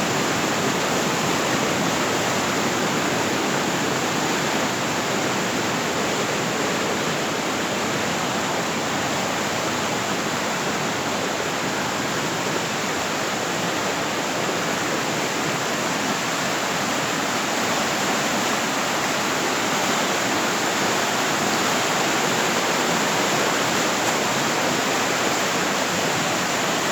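Steady rush of a fast-flowing river running with strong force.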